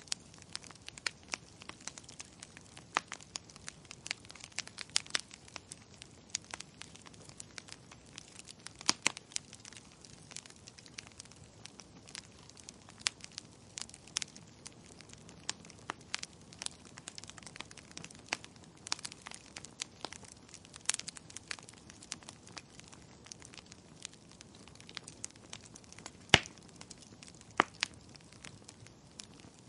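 Wood fire crackling in a fireplace: irregular sharp pops and snaps over a faint steady hiss, with one louder pop late on.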